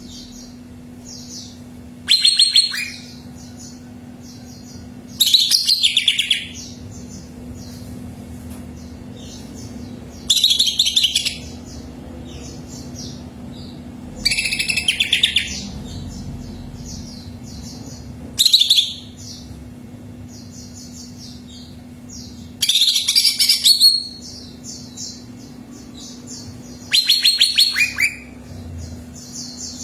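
Cucak ijo (green leafbird) singing loud song phrases about a second long, seven times, roughly every four seconds, over a fainter continuous high chirping. A steady low hum runs underneath.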